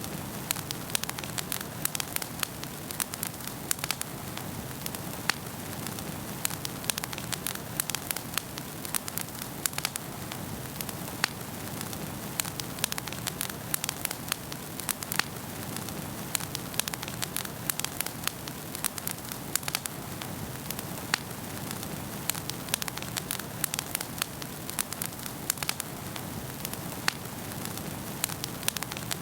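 Wood fire burning in a fireplace, crackling and popping steadily over a low hiss, with sharp pops coming irregularly several times a second.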